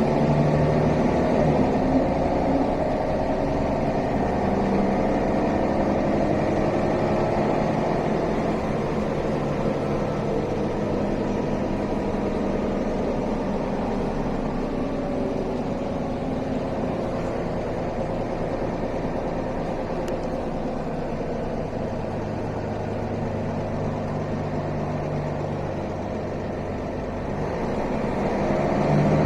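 Mercedes-Benz O405 city bus's diesel engine, heard from inside the passenger cabin during a ride. The engine note falls slowly as the bus slows, stays low for a few seconds, then grows louder and rises as the bus pulls away near the end.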